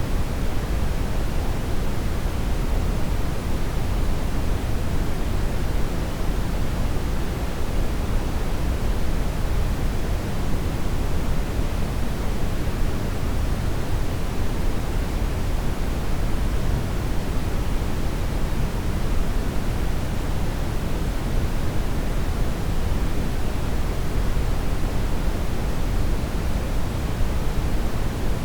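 Steady brown noise: an even, deep hiss with most of its weight in the bass, unchanging throughout.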